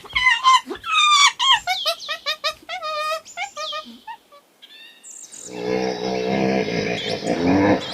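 A songbird singing a rapid series of varied chirps and sliding whistled notes. About five seconds in, it gives way to a lower, drawn-out animal call with a noisy, rough edge, typical of farm livestock.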